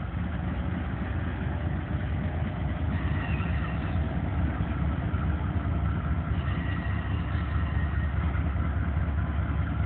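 Norfolk Southern freight train rolling across a grade crossing, its diesel locomotives pulling hard under load: a steady low rumble that builds slightly.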